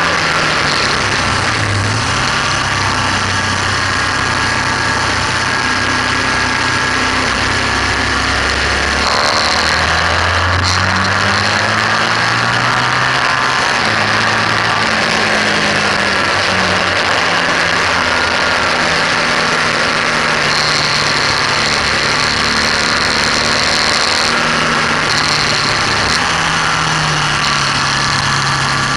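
BMW R1200S's boxer-twin engine running hard on track under heavy wind rush. Its note rises and falls with throttle and gear changes, with a sharp change about nine seconds in.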